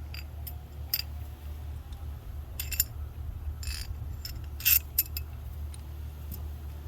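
Small metal hardware being handled, with scattered sharp clicks and clinks, over a steady low hum.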